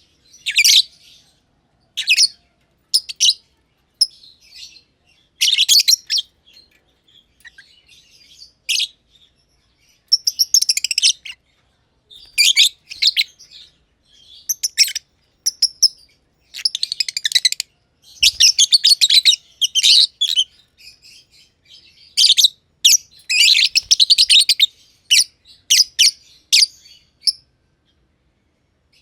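Two black-masked lovebirds (green and green-pied personata) chirping in irregular bursts of rapid, high chirps with short pauses between. They fall silent for the last couple of seconds.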